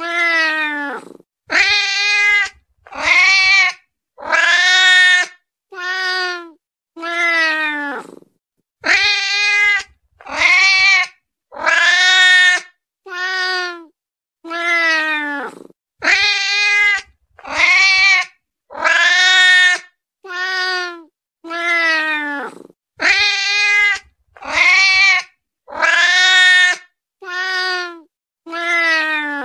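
Domestic cat meowing for food: about twenty long, drawn-out meows, one every second or so with short silences between, many of them falling in pitch at the end.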